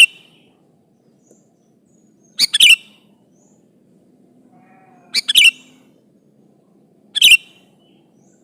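Sooty-headed bulbul (kutilang) calling in short bursts of a few quick, sharp notes, repeated about every two and a half seconds. It is a loud challenge call to rival bulbuls, of the kind used to provoke other kutilang into answering.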